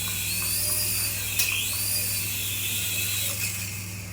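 Remote-control toy's small electric motor and gears whirring, with a high whine that rises and falls about every second and a half and a sharp click about a second and a half in.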